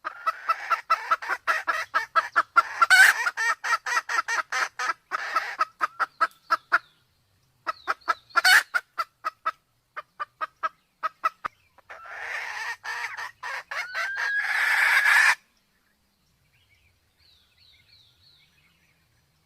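Sumatran red junglefowl calling: a fast run of short, repeated clucks, broken twice by a louder, sharp call. About twelve seconds in, a longer call rises in pitch, then cuts off suddenly, and only faint chirping follows. It is a male-and-female combination with a female in breeding condition, used as a hunting lure.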